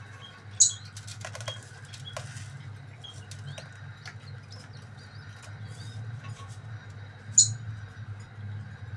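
Young spotted dove flapping its wings: two sharp, loud flaps, one about half a second in and one near the end, among scattered small clicks and faint short peeps.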